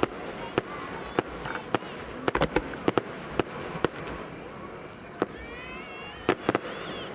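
Aerial firework shells bursting in sharp, irregular bangs and cracks, many in quick succession over the first four seconds and two more near the end. A steady high insect trill runs underneath.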